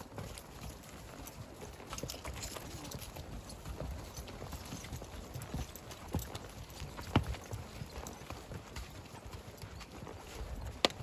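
Horse walking on a trail, hooves clopping in an irregular run of steps, with two sharper, louder knocks about seven seconds in and near the end.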